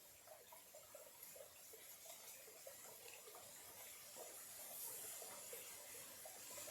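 A small stream trickling faintly: many short gurgles over a soft hiss.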